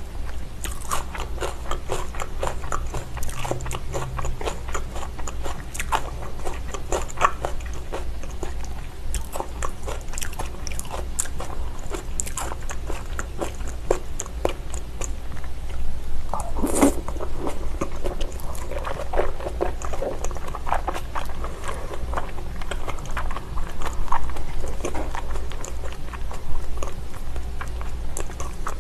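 Close-miked chewing and biting of thick slices of raw salmon sashimi: a steady run of wet mouth clicks and smacks.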